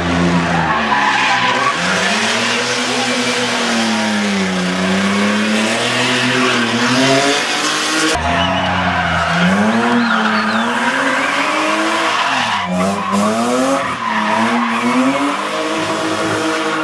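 Race car engines revving hard and dropping back repeatedly through gear changes, with tyre squeal. About eight seconds in the sound switches abruptly to another run of the same kind.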